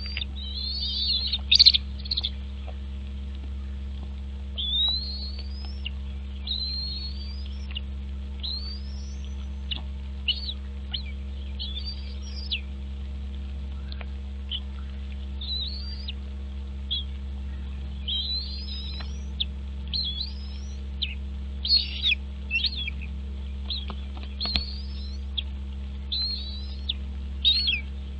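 Birds calling: many short, high chirps, most of them quick rising slurs, repeated irregularly, over a steady low electrical hum.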